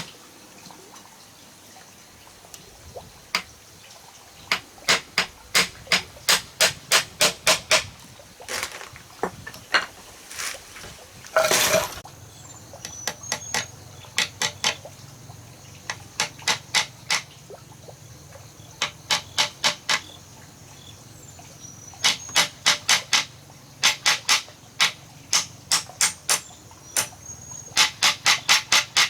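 Runs of quick, sharp knocks, about three a second in bursts of five to ten with short pauses between, like hammering on wood. About a third of the way in, there is a short rasping scrape.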